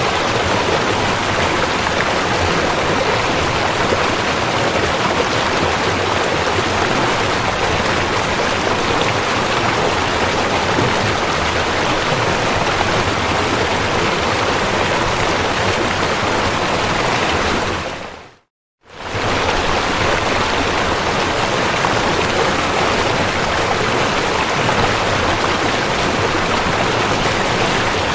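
Rushing river water, a steady dense rush. About two-thirds of the way through it fades out to silence for under a second and fades straight back in.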